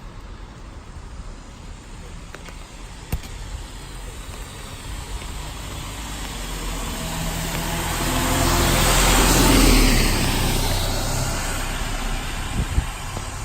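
A car passing close by on a wet road: its engine hum and tyre hiss swell over several seconds, are loudest about nine to ten seconds in, then fade away.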